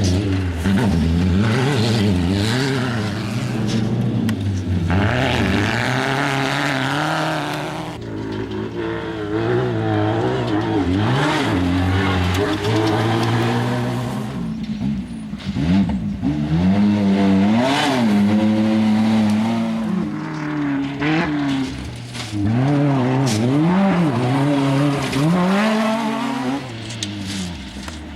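Engines of off-road desert race cars and trucks revving up and down as they drive past one after another, with the pitch rising and falling again and again.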